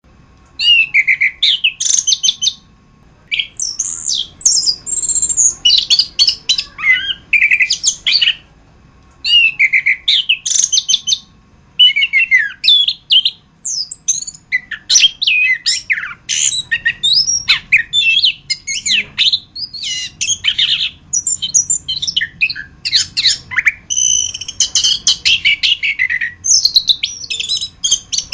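Chestnut-capped thrush (anis kembang) singing a fast, varied song of whistled and chattering phrases, broken by a few short pauses early on and then almost continuous.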